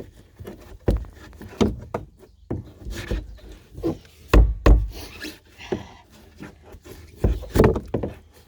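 Irregular knocks, thumps and scraping as a hand tool pries and chips old, waterlogged pour-in flotation foam out of a boat hull. The heaviest thumps come about halfway through and again near the end.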